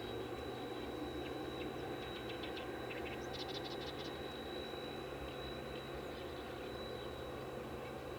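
Small wild birds chirping, a few quick runs of chirps in the first half, over a steady low hum and a thin continuous high whine.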